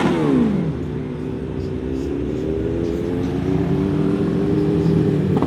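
A car engine revved hard once, its pitch shooting up and dropping back within about a second. Then a steady engine note climbs slowly in pitch.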